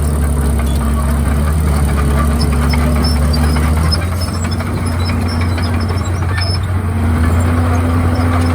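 Komatsu D51PX bulldozer's diesel engine running steadily at working revs. Its note drops about four seconds in and rises again near seven seconds, with faint scattered ticks over the top.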